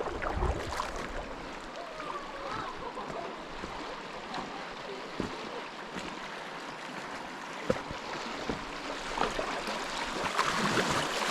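Creek water rushing and splashing around a kayak, with a few sharp knocks; the water grows louder near the end.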